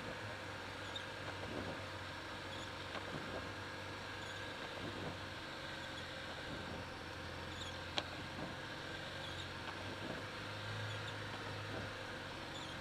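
Lada Niva (VAZ-2121) driving slowly through snow, heard from inside the cabin: a steady low drone of engine and tyres, with faint squeaks and rattles and a single sharp click about eight seconds in.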